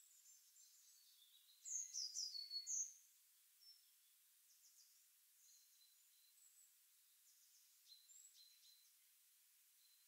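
Small birds singing and calling: a short burst of quick, high song notes about two seconds in, with faint high chirps scattered through the rest.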